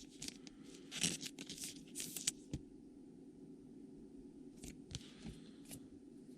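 Trading card pack wrapper being torn open and crinkled in a cluster of rustles, followed a few seconds later by a few light clicks of cards being handled.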